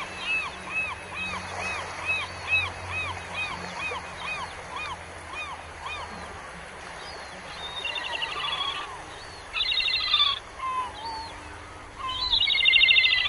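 Bird calls: short arched whistled notes repeating about two to three times a second, giving way after about six seconds to bursts of fast rattling chatter, the loudest near the end.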